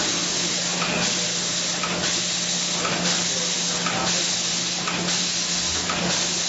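Factory floor machinery noise: a steady hiss with a low hum and a faint pulse about once a second.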